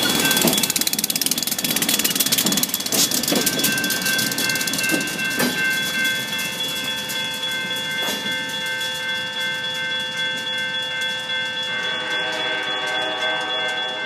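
Freight cars clattering and rumbling over the rails through a grade crossing, fading out after about five seconds. A railroad crossing bell keeps ringing steadily and rapidly throughout, with the crossing still active after the train has passed.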